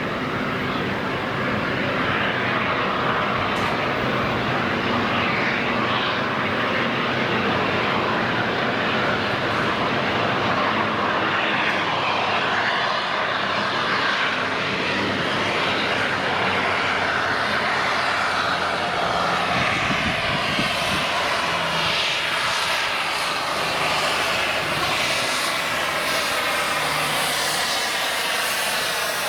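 A train passing close by: a loud, steady roar of running noise with no chuffs or beats standing out.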